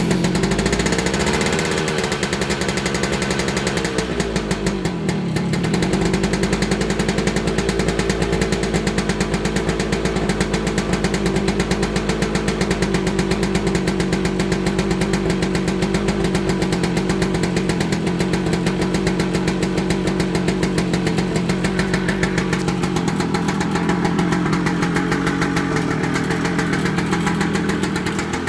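1998 Kawasaki KE100's single-cylinder two-stroke engine running cold, revved up and down a few times in the first four seconds, then settling to a steady, even idle. The owner hears a ticking from the cylinder that he cannot identify.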